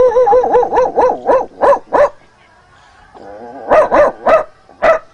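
A man imitating a dog with his voice: a quick run of about eight wavering barks, a pause, a short falling whine, then four more spaced barks. It is his impression of a dog that barks and then yawns.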